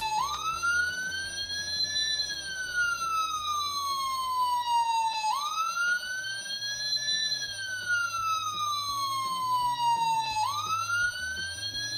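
Electronic toy siren from a Fireman Sam mountain rescue 4x4's light-bar button: a slow wail that rises for about two seconds and falls for about three, starting again about five seconds in and again near ten and a half seconds.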